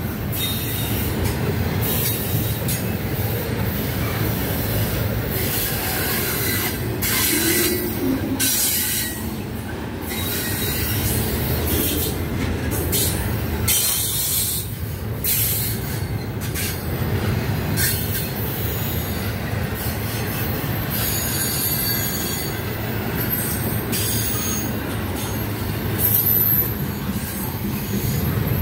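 Double-stack intermodal freight cars rolling past: a steady rumble of steel wheels on rail with frequent clicks and clanks from wheels and couplers.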